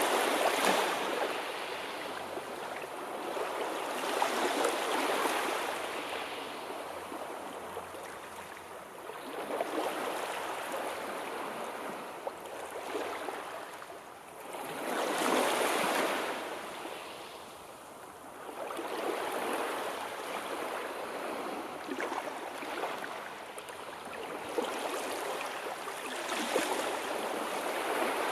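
Sea waves washing in, the surf swelling and falling away about every five seconds.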